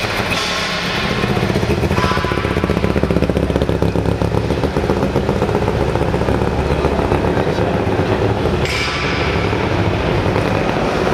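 1963 Saab 96's tuned three-cylinder two-stroke engine running, with a dense, rapid firing note that shifts about two seconds in and again near the end.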